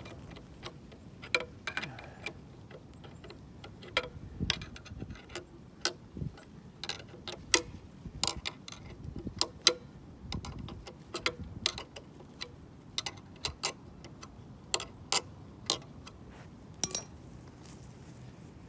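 Irregular, sharp metallic clicks and clinks from a hand wrench and bolt hardware, a few a second with short pauses, as nuts are run onto carriage bolts through steel brackets.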